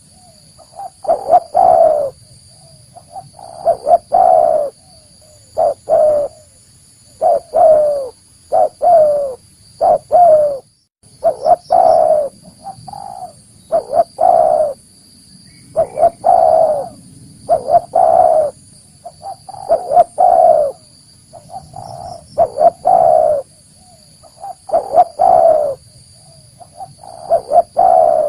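Spotted dove (tekukur) giving its cooing song over and over: short phrases of a few loud, low coos every second or two, the call used to lure wild doves in. A faint steady high hum runs underneath.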